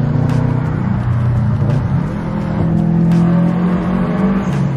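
Subaru WRX STI's turbocharged 2.5-litre flat-four engine accelerating hard under a full pull, heard from inside the cabin. Its pitch climbs, dips briefly about two seconds in, then climbs again.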